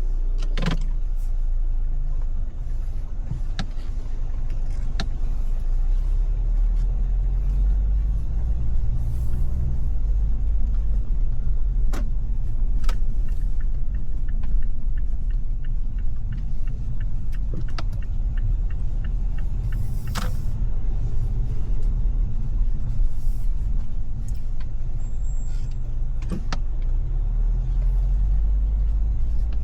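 Car driving: a steady low rumble of engine and road noise, with a few brief sharp clicks scattered through.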